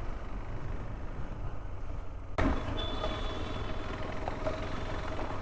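Motorcycle riding noise: a steady low rumble of engine and wind. About two and a half seconds in it changes abruptly to a brighter, noisier sound with a faint steady tone and a few clicks.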